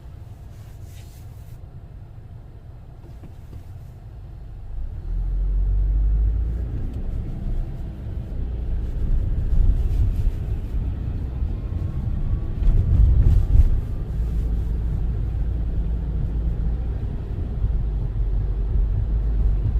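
Car driving, a steady low road-and-engine rumble heard from inside the cabin, growing clearly louder about five seconds in and staying so.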